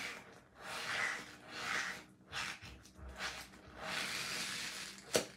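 A starch-filled rubber balloon squishy being squeezed and kneaded in the hands: several separate rubbing, hissing squeezes of up to about a second each, with a sharp click near the end.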